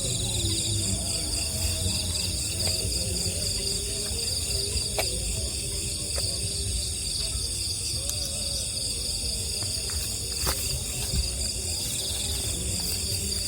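Night insect chorus: crickets and other insects trilling steadily in several high pitches at once, over a low rumble, with a couple of sharp clicks about five and ten seconds in.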